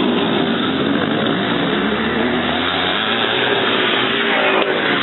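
Several vintage 500cc motocross motorcycles racing, their engines rising and falling in pitch as the riders work the throttles.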